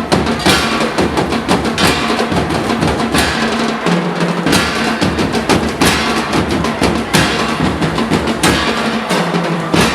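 Percussion-driven dance music: drums with bass drum and snare beating fast, and a strong crashing accent about every second and a half.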